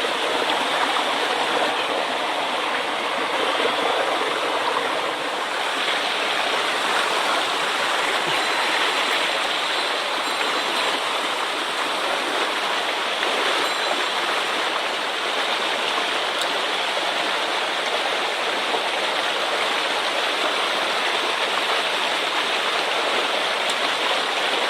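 Swollen mountain stream rushing steadily over rocks, running high after heavy rain.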